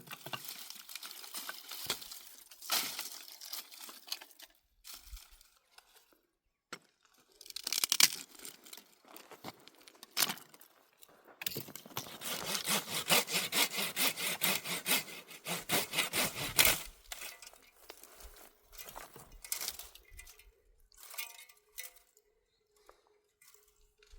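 Hand saw cutting wood. Irregular knocks and scrapes come first, then about halfway through a run of quick, even strokes, nearly three a second, that lasts around five seconds.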